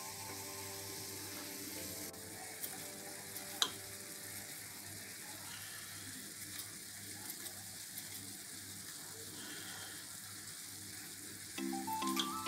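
Food sizzling in a pan, a steady hiss with a few light clicks and one sharp click about three and a half seconds in. Background music plays over the first two seconds and comes back louder near the end.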